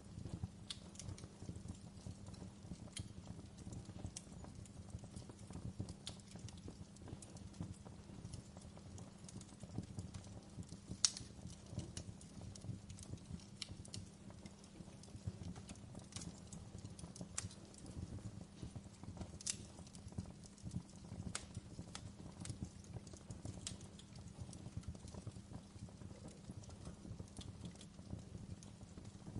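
Wood fire crackling: a steady low rumble under frequent small irregular snaps, with a few sharper pops now and then.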